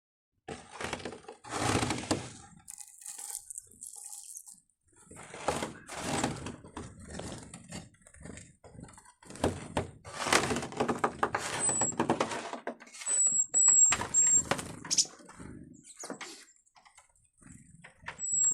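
Small birds fluttering and flapping in repeated short bursts, with several thin, high-pitched call notes in the second half.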